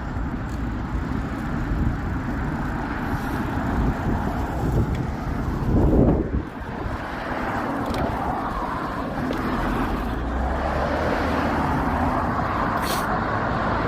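Steady rushing noise of a road bike in motion, wind and tyre noise, swelling louder for a moment about six seconds in.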